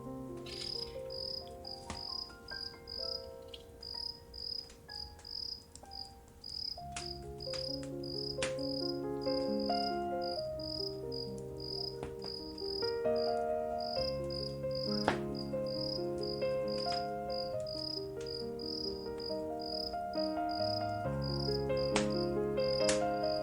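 Crickets chirping in a steady pulse, about two chirps a second, over soft, slow music of held notes that swells about seven seconds in. A few faint crackles of a wood fire come through now and then.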